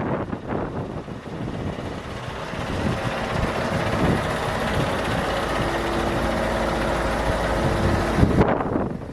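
Scania R580's V8 diesel engine running steadily, with a few steady engine tones coming through midway. It cuts off abruptly about eight seconds in.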